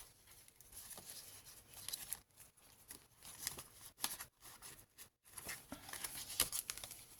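Faint rustling of paper and card with scattered soft taps as the pages of a handmade junk journal are handled and turned.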